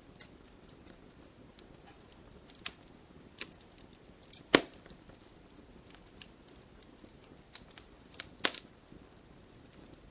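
Campfire crackling: scattered small snaps over a low steady hiss, with two loud pops, one about halfway and one near the end.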